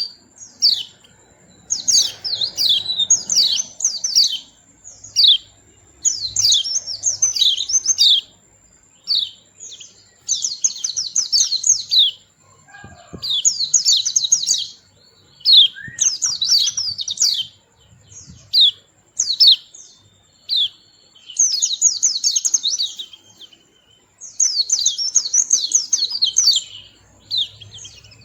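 White-eye (pleci) singing: rapid, high twittering phrases of a second or two, repeated again and again with short pauses between them.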